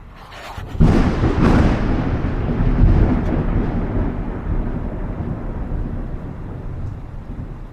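Thunderclap: a sharp crack about a second in, then a long rolling rumble that slowly fades.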